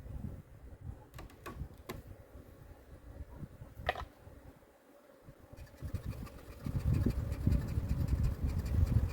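Wind buffeting the microphone in uneven low gusts, growing louder about two-thirds of the way in, with a few sharp clicks near the start.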